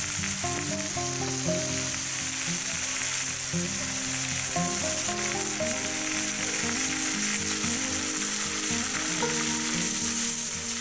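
Hare meat and sliced onions sizzling steadily in hot oil in a kazan lid used as a frying pan. About halfway through, more oil is poured in, and near the end the pan is stirred with a wooden spatula.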